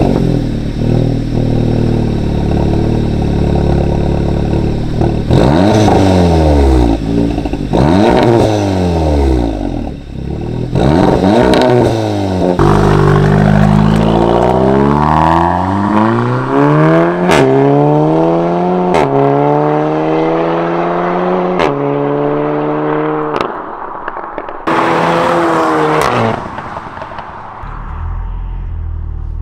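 Modified Seat Leon Cupra 300's turbocharged 2.0-litre four-cylinder, with resonator and turbo muffler deleted and an aftermarket intake, idling and then revved repeatedly: short blips first, then longer revs that climb and fall back, with sharp cracks as the revs drop. It settles back to idle near the end.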